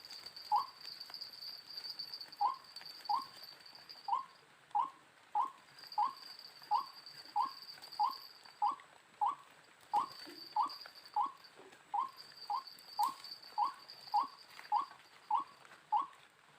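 White-breasted waterhen calling: a short, slightly rising note repeated steadily about three times every two seconds, with a high insect buzz coming and going behind it.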